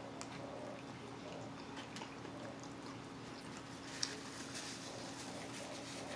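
Quiet eating sounds: a man chewing a bite of taco pizza, with small wet mouth clicks over a steady faint hum. A sharp click comes about four seconds in, followed by a brief rustle as hands work in the pizza box.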